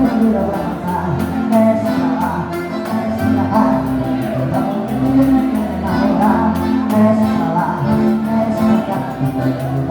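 Live gaúcho dance-band music: a voice singing over sustained accordion chords and a steady beat.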